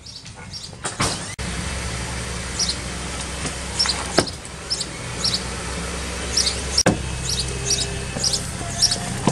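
A car engine idling steadily, starting suddenly about a second and a half in, with a sharp click about four seconds in and another near seven seconds, like a door latch, and short high chirps repeating over it.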